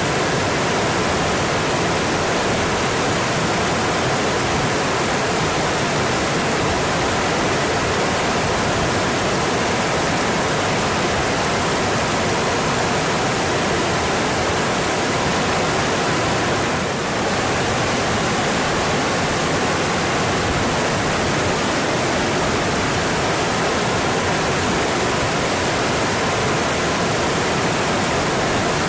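Mountain stream rushing steadily over rocks, an even hiss of water that dips for a moment about seventeen seconds in.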